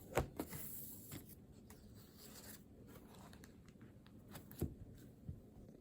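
Pen scratching on paper, faint, with a few short taps and clicks of the pen or desk.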